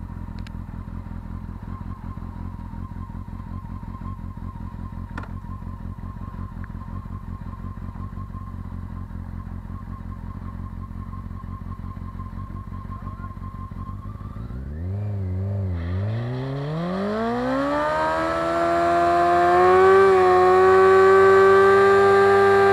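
Honda CBR600F4i inline-four sport-bike engine idling steadily, then revved a couple of times about fifteen seconds in and run up hard to a high, steady pitch that it holds, loud, while the rear tyre spins and smokes in a burnout.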